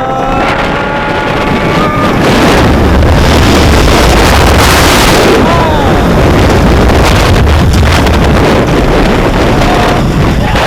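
Rushing air buffeting the microphone on the front row of the Ravine Flyer II wooden roller coaster as the train runs at speed. A rider's long held yell comes in the first two seconds, and from about two seconds in the loud wind rumble dominates.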